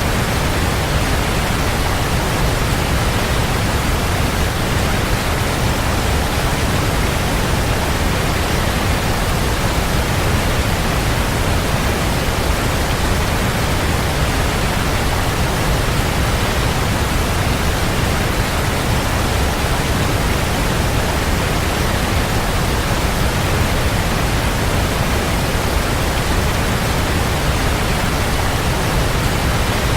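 Waterfall, a steady, even rush of falling water with a deep low rumble and no breaks.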